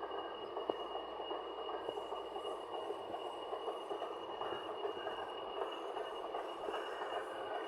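Steady machine running noise with a thin high whine over it.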